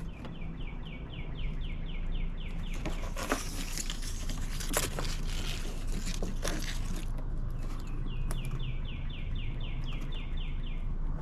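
A songbird singing a fast run of about a dozen short down-slurred chirps, twice, about eight seconds apart. In between, crinkling and rustling of adhesive tape being handled.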